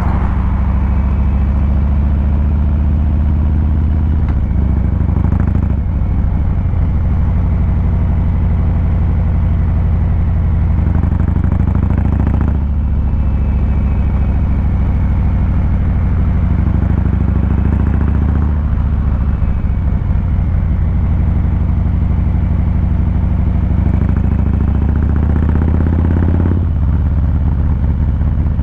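Harley-Davidson Fat Boy 114's Milwaukee-Eight 114 V-twin running under way, a steady low exhaust rumble whose note changes abruptly three times with throttle or gear changes.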